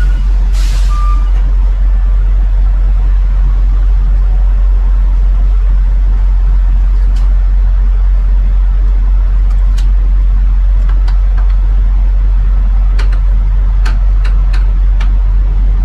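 Steady, loud low drone of a tractor-trailer rolling down the road as heard inside the truck's cab. A few short sharp clicks sound about ten seconds in and again near the end.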